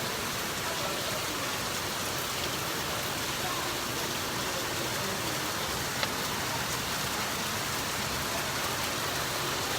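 Rainstorm: rain falling steadily, an even hiss, with one small sharp tick about six seconds in.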